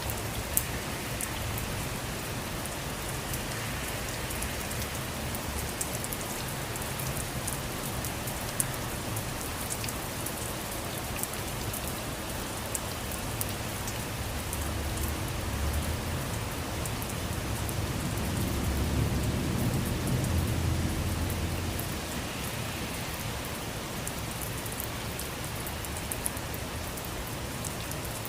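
Steady rain falling, with close drops ticking sharply on a surface. A low rumble swells up past the middle and fades out again.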